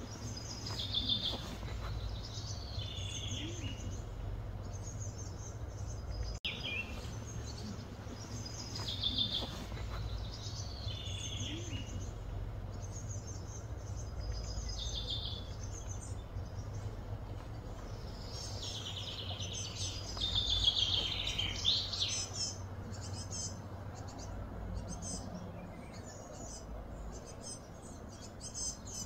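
Birds singing: short chirping phrases that fall in pitch, repeated every couple of seconds and busiest about twenty seconds in, over a steady low background rumble.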